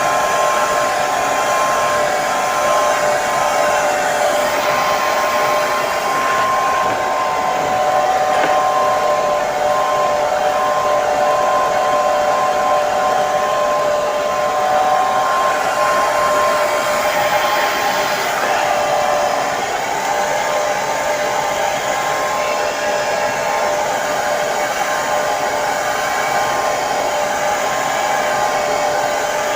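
Hair dryer running steadily: a loud even rush of blown air with a steady motor whine, its pitch wavering slightly.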